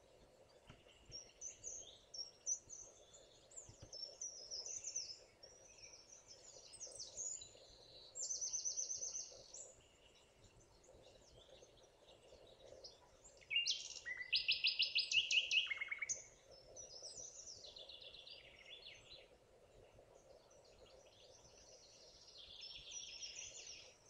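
Several songbirds singing and chirping in woodland, including rapid trills; the loudest trills come about 8 seconds in and from about 14 to 16 seconds in. Under them runs a faint steady background noise.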